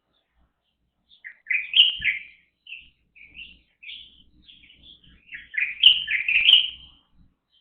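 Songbirds chirping: a quick run of bright chirps about a second and a half in, scattered single notes, then a second, longer run of chirps around the sixth second.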